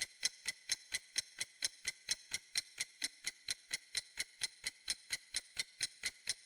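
A countdown-timer sound effect: rapid, even clock-like ticking at about four ticks a second, crisp and high, which stops right at the end.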